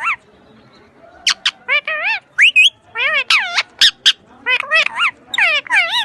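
Pet parrot squawking: a rapid string of short, loud calls that swoop up and down in pitch, starting about a second in.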